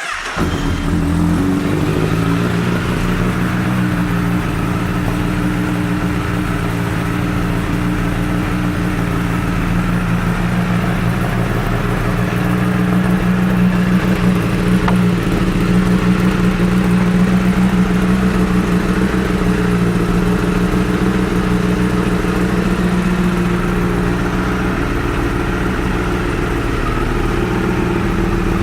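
2013 Honda CBR1000RR's inline-four engine starting and idling steadily through an aftermarket Yoshimura exhaust, a little louder for a while in the middle.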